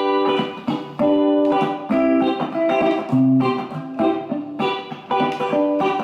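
Electric guitar playing country-style lead lines over a backing track, with fresh notes or chords landing about once a second over a steady bass line.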